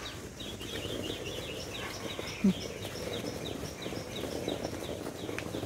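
A bird calling a fast run of short, high chirps that slide downward, about three a second, over a steady rough background noise. About halfway through there is one brief, louder low sound.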